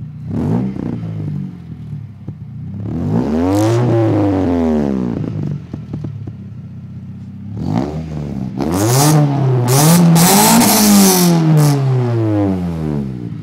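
Acura Integra's B18 four-cylinder engine revved through a new full exhaust with a carbon fiber muffler. A quick blip, then a long rev that rises and falls back to idle, another short blip, and a longer rev held near its peak with a harsh rasp before dropping back to idle.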